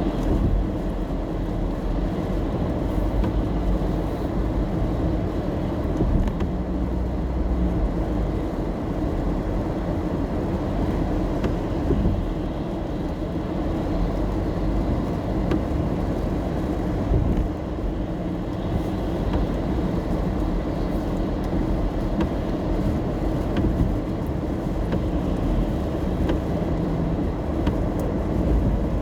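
Car driving in the rain, heard from inside the cabin: a steady rumble of road and engine noise, heavy in the low end, with faint scattered ticks.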